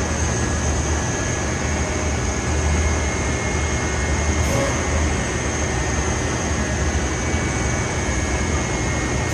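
Rock wool production line machinery running steadily, a loud even noise with a low hum underneath and a thin high whine on top.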